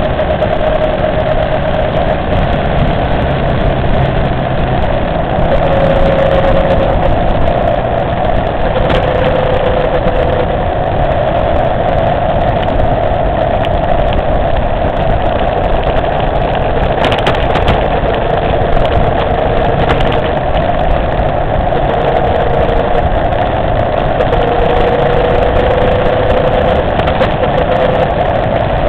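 Motorcycle engine running at a steady cruising pace while riding, with a strong rush of wind noise. The engine note holds fairly steady, dipping and rising slightly in pitch a few times.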